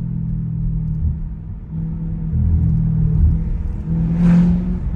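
Exhaust of a straight-piped Audi S7 driving. It runs steadily, then gets louder about halfway through, loudest just before the end, as the car pulls harder.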